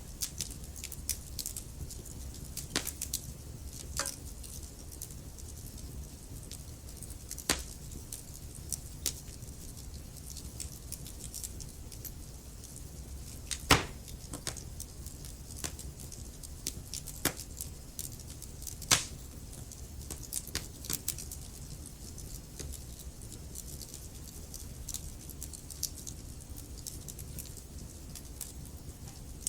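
Wood fire burning in a fireplace: logs crackling with irregular small pops over a low steady rumble. The sharpest pops come about 7 s, 14 s and 19 s in.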